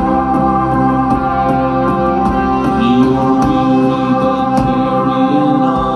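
Live band playing an instrumental passage between verses, with a sustained organ chord prominent over drums.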